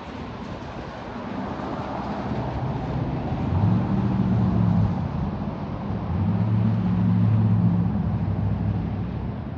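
A motor vehicle's low engine hum swelling as it drives past, loudest about four and again about seven seconds in, then fading, over a steady rush of road and wind noise.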